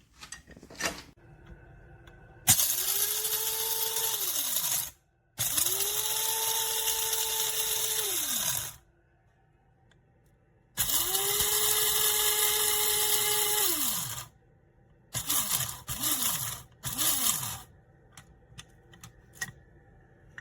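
Electric blade coffee grinder run in three bursts of a few seconds each: the motor spins up to a steady whine, holds, then winds down. Near the end come three quick short pulses.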